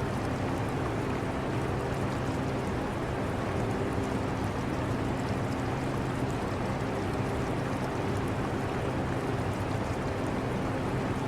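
Steady low air-conditioner hum with faint steady tones, blended with the continuous running-water sound of an aquarium.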